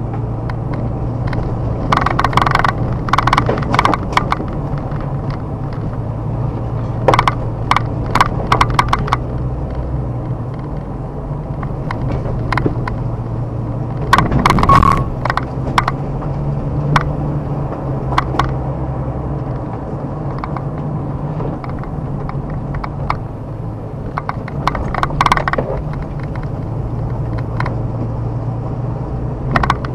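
A car driving slowly on a rough forest road: a steady engine and road drone, with clusters of clicks and knocks from the road surface and debris under the tyres, the loudest a little before the middle.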